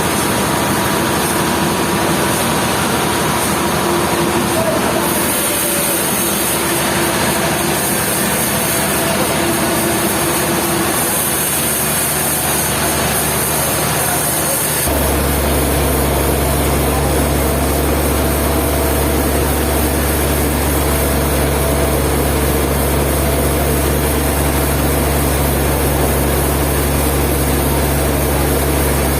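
Heavy machinery engine running steadily, as at a sawmill. About halfway through the sound changes abruptly and a deeper, stronger steady hum takes over.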